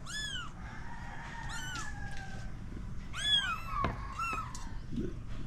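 Kittens meowing, about four short high-pitched meows spread over a few seconds.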